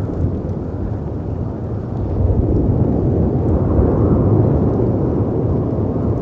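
Layered storm ambience: a deep, steady rush of wind and sea surf that swells louder for a few seconds in the middle, with a few faint crackles from a fireplace.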